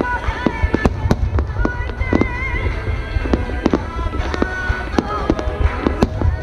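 Fireworks shells bursting in quick succession, a dense string of sharp bangs over a continuous low rumble, with music playing alongside.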